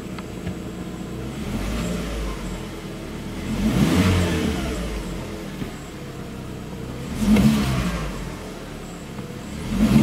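Lada VAZ-21179 1.8-litre petrol engine idling and revved by the throttle three times, in the middle, about seven seconds in, and at the end. It seems to run normally with its camshaft timing freshly reset.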